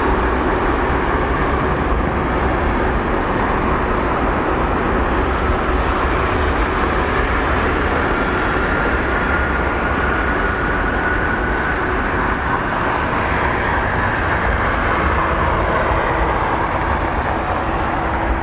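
Airbus A380's four Rolls-Royce Trent 900 turbofans at takeoff power: steady, loud jet noise with a faint high whine that rises slightly midway.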